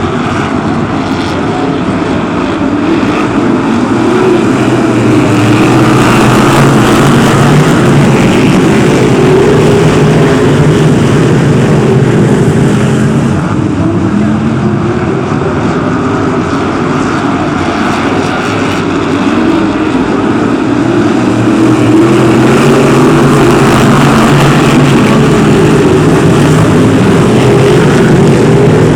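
A pack of BriSCA F1 stock cars' big V8 engines running hard around the oval, a loud, continuous mass of engine noise that swells twice as the cars come past.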